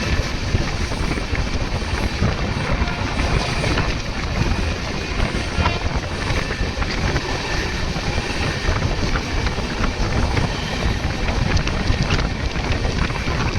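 Moving passenger train running at speed: a steady rumble of wheels on track with wind buffeting the microphone and scattered light clicks.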